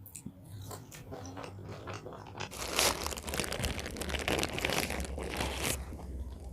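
Close-miked chewing and biting of crunchy fried fast food: scattered wet mouth clicks, then a louder, denser stretch of crunching lasting about three seconds.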